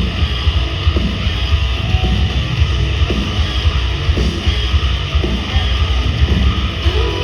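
Live heavy rock band playing an instrumental passage: distorted electric guitars over a rapid kick-drum beat.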